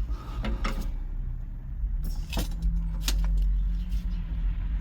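A few sharp metallic clinks and knocks from a car jack and jack stands being handled under the car, over a steady low rumble.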